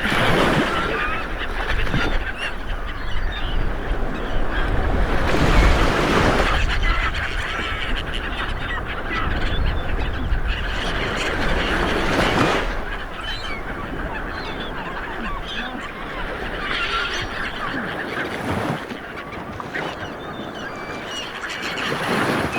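Ocean waves washing in, swelling every five or six seconds, with many birds calling over them throughout.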